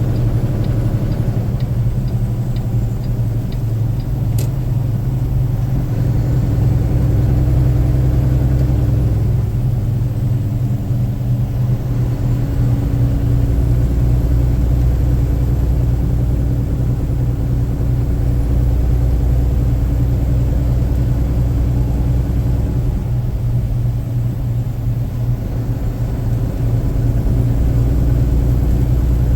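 Car driving on a rain-wet road: a steady low rumble of engine and tyres, with a short run of light ticks and a single click in the first few seconds.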